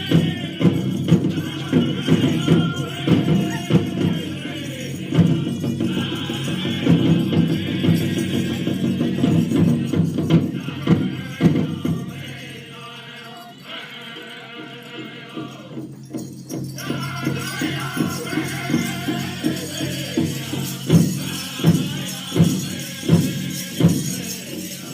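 Powwow drum group singing an honor song in unison over steady beats on a shared big drum. About halfway through, the singing and drumming drop low for a few seconds. Then loud, evenly spaced drumbeats return with the singing.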